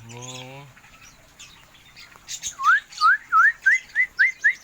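Aviary birds calling: a bird whistles a run of about eight quick rising notes, coming faster toward the end, while other small birds give short high chirps.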